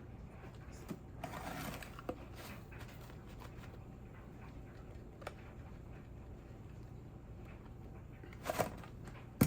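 Light kitchen handling sounds from spice containers: a brief shaking rustle about a second in, a few scattered light clicks, and a sharper pair of clicks near the end.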